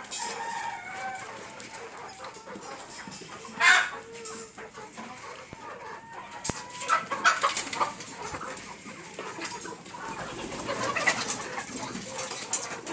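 Chickens clucking and calling on and off, with one louder short sound about four seconds in.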